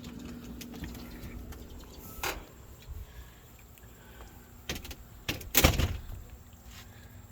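A door being opened and shut: a few separate knocks and clunks, the loudest a little over halfway through, over a steady low hum.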